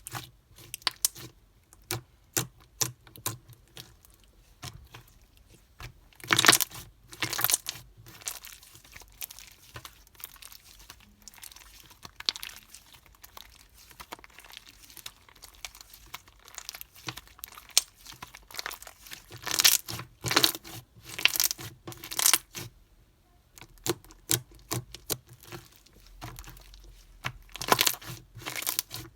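Slime being squished, stretched and folded by hand, giving a run of irregular sticky clicks, pops and crackles. Louder crinkly bursts come about a third of the way in, again past the middle, and near the end.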